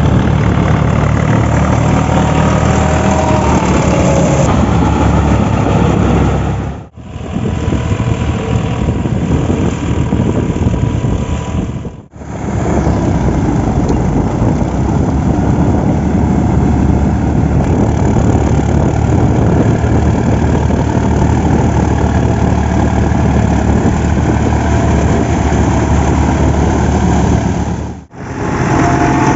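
Diesel tractor engine running steadily under load, pulling a rotavator through puddled paddy mud. The sound cuts out briefly three times.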